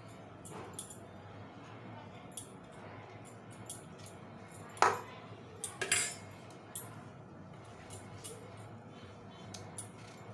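A spoon clinking and scraping against a bowl while chicken pieces are mixed with a spice marinade, with a few sharper knocks about five and six seconds in.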